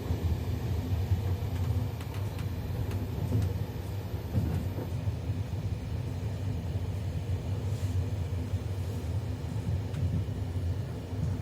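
Doğu Ekspresi passenger train running along the track: a steady low rumble with a few faint clicks.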